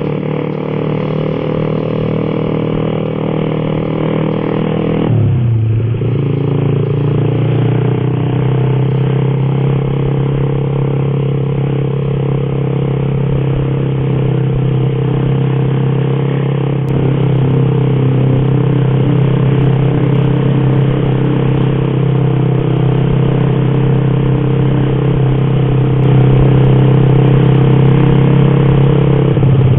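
Motorcycle engine running at steady cruising revs, heard from a camera mounted on the moving bike. About five seconds in the revs drop sharply and then settle back to a steady note.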